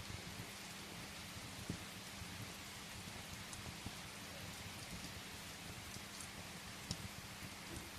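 Steady rain against a window with the scattered snaps and pops of a wood fire crackling in a fireplace; two sharper pops stand out, about two seconds in and again near the end.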